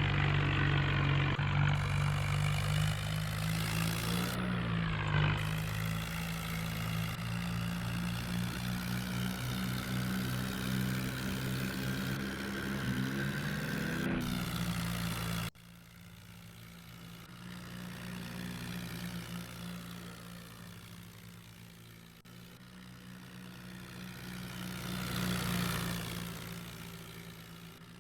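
New Holland tractor's diesel engine running steadily under load. It drops suddenly to a quieter level about halfway through and keeps running.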